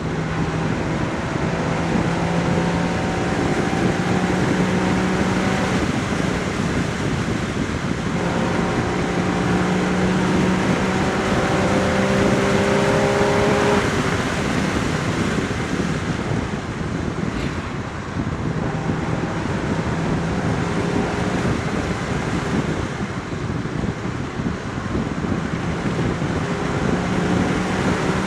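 Porsche Boxster Spyder 981's naturally aspirated 3.8-litre flat-six exhaust on the move, with steady wind rush. The engine note climbs slowly in pitch under acceleration through the first half, then drops off about halfway through.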